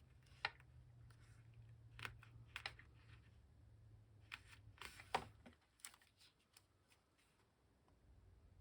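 Faint handling of paper and card on a work table: a few light taps and rustles, over a low hum that stops about halfway through.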